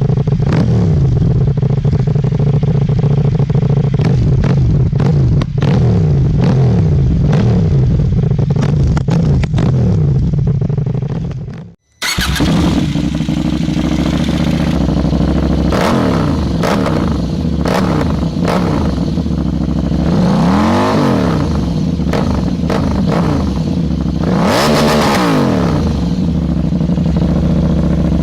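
KTM 790 Duke's parallel-twin engine running loud through an aftermarket exhaust. It cuts off abruptly about twelve seconds in, then comes back and revs up and down several times.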